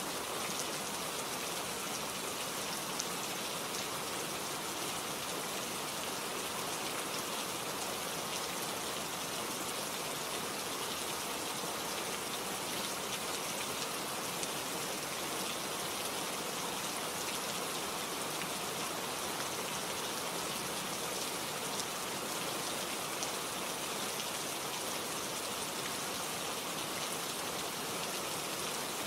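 Steady rain falling, with the close patter of individual drops hitting surfaces; an even hiss that holds constant throughout.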